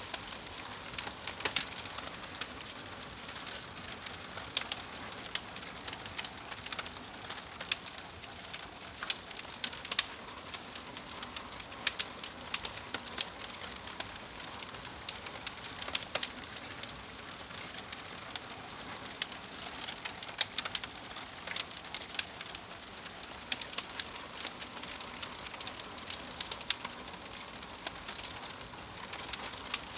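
Fire crackling: a steady hiss with irregular sharp pops and snaps, several a second.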